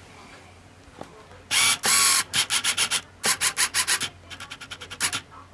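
Rubbing strokes on the rubberized plastic of a laptop hard case: two longer strokes, then quick runs of short strokes, and lighter, faster ones near the end.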